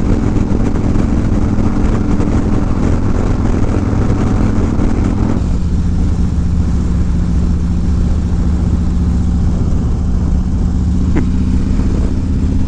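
Harley-Davidson V-twin motorcycle engine running through an aftermarket 2-into-1 exhaust while riding, its note stepping down to a lower, steadier pitch about five seconds in.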